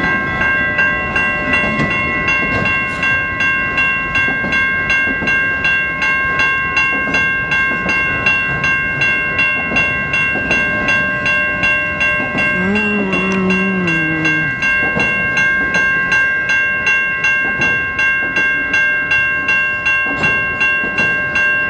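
Railroad crossing bells, Siemens electronic bells together with a General Signals Type 3 bell, ringing in a fast, even, continuous rhythm over the rumble of a freight train rolling past. A short lower tone sounds near the middle.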